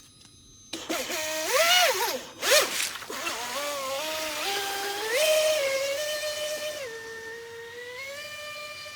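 Brushless motor of an RC jet boat's water-jet drive whining. It starts suddenly under a second in, its pitch swooping up and down with the throttle, then holds steadier with stepped rises and drops in pitch.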